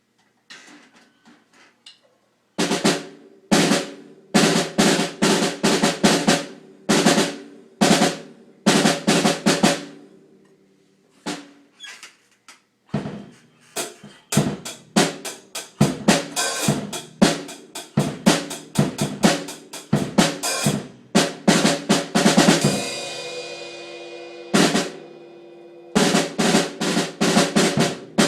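Snare drum damped with a piece of tissue taped onto it, played in fast strokes and rolls. A few soft taps come first, then loud playing with a short break near the middle, and one longer ringing hit about two-thirds through.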